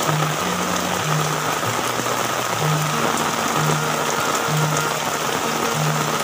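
Heavy rain falling steadily, under background music with a slow line of held low notes.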